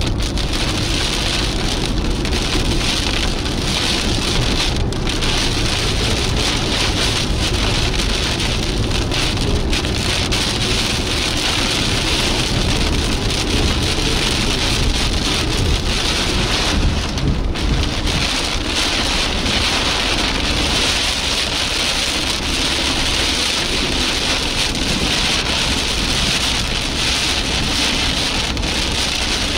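Heavy rain pelting a car's roof and windscreen during a severe thunderstorm, heard from inside the moving car as a dense, steady hiss with a low rumble underneath.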